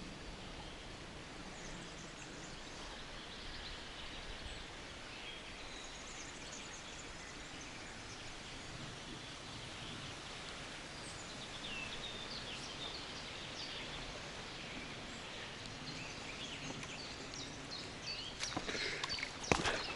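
Forest ambience: many birds singing and calling over a steady hiss. Near the end come a run of sharp clicks, footsteps on the forest floor.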